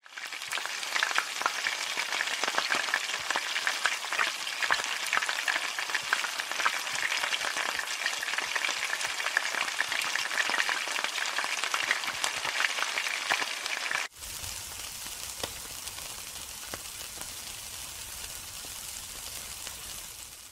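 Food frying in hot oil in a wok, a dense sizzle full of pops and crackles. About fourteen seconds in it cuts abruptly to a quieter, steadier sizzle with a low rumble underneath.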